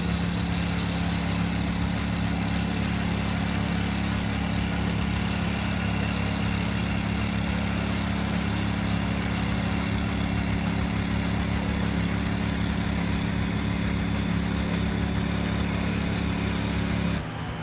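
Engine of a hedge-trimming machine running steadily at an even pitch, cutting off suddenly near the end.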